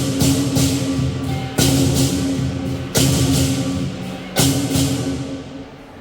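Lion dance percussion: drum, cymbals and gong beating about three strikes a second, then three big crashes about a second and a half apart that ring on and die away near the end.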